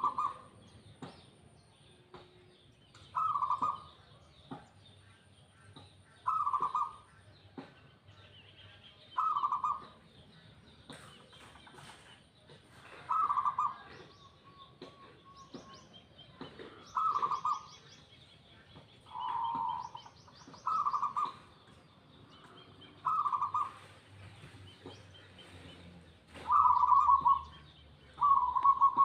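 Zebra dove (perkutut) cooing: a short, rolling coo of the same pitch, repeated about every three seconds, some ten times. Faint high chirps of other small birds sound between the coos.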